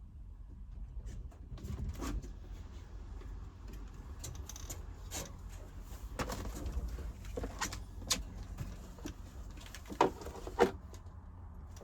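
Scattered knocks and clicks over a steady low rumble, the two loudest knocks near the end.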